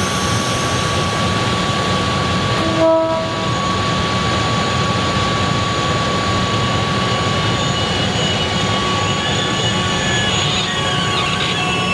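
NICTD South Shore Line electric commuter train's stainless-steel cars rolling past, a steady rumble of wheels and running gear with a thin continuous whine. A brief horn toot sounds about three seconds in, and faint wheel squeal comes in near the end.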